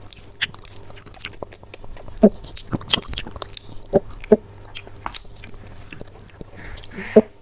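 Close-up eating sounds: food being bitten and chewed with irregular crisp crunches and clicks, and a few short wet mouth sounds.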